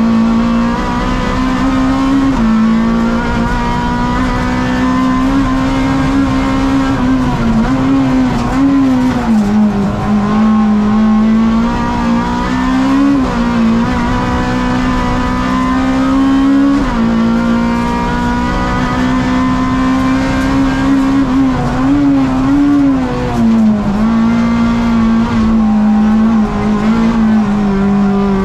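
Honda Civic Type R race car's engine at racing speed, heard from inside the cabin. Its pitch climbs through each gear and drops at each gear change, with several dips and recoveries where the car slows for corners and accelerates out.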